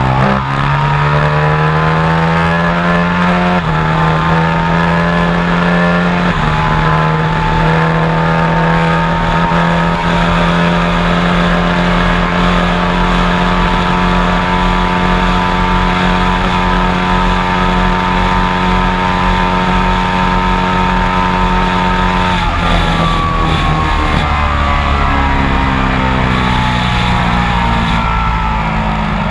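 Sport motorcycle engine accelerating hard through the gears, its pitch climbing with two quick upshifts in the first six seconds, then held at high, steady revs. About 22 seconds in the revs drop and fall away as it slows, then climb again near the end.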